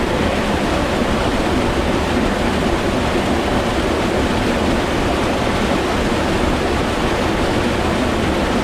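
Mountain valley stream: a steady, loud rush of running water close by.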